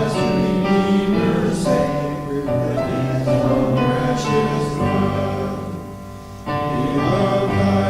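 Congregation singing a hymn together with piano accompaniment, with a short break between lines about six seconds in.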